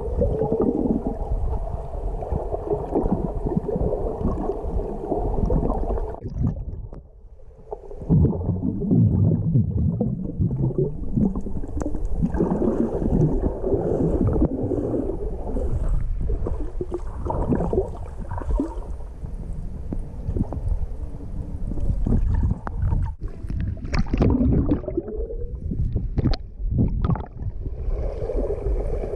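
Water moving and bubbling around a submerged camera, heard from underwater: a dull, continuous gurgling and rushing, mostly low in pitch. It drops away briefly about seven seconds in. A few short sharp sounds come near the end.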